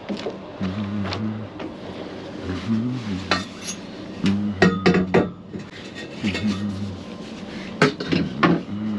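Scrap metal clanking and rattling as it is handled, with clusters of sharp clanks about halfway through and again near the end, over a low hum that comes and goes.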